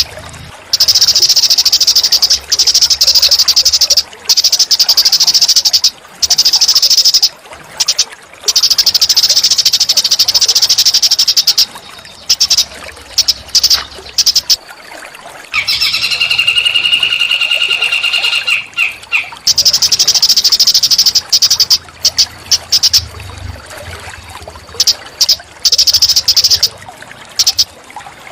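Small songbird singing long, rapid, high buzzing trills, each lasting two to four seconds with short gaps between. A lower, steadier whistled call of about four seconds comes just past the middle.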